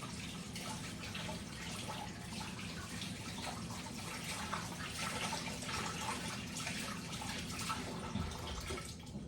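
Kitchen tap running into a sink: a steady splashing stream that stops near the end.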